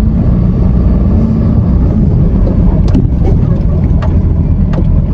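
Flatbed tow truck's engine running steadily at low speed while the truck is turned around, with a few light clicks in the second half.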